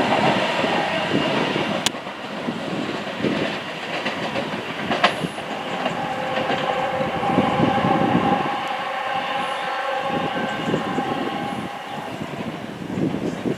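A passing train's wheels rumble and clatter over the track, with a steady tone held through the middle that stops about two seconds before the end.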